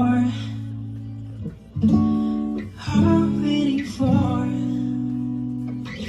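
Acoustic guitar strumming chords, each left to ring before the next is struck about once a second, with a voice singing over them.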